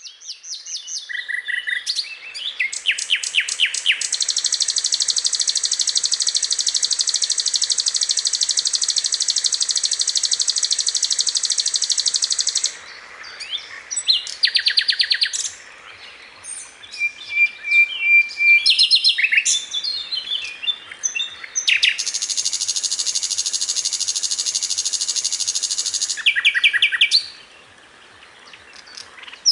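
Sikatan londo flycatcher song on a masteran bird-song tutoring recording. Two long, fast, high trills of several seconds each, the first starting about four seconds in and the second about twenty-two seconds in, with shorter chirps, buzzy notes and quick note series between them.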